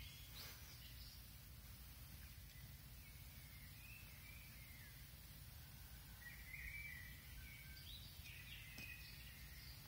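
Faint birdsong outdoors: a few short chirping phrases, scattered through, over a low steady rumble of outdoor ambience.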